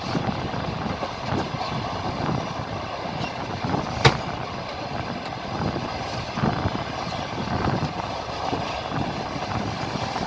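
Passenger train running along the track, heard from aboard: steady wheel and rail rumble with uneven knocks as the wheels pass rail joints, and one sharp click about four seconds in.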